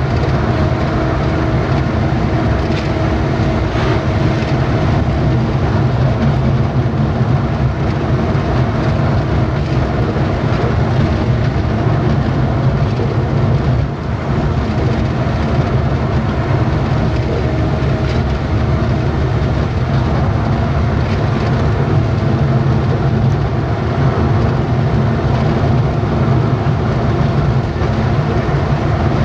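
Truck engine running steadily with a low road rumble while driving, with no change in pace.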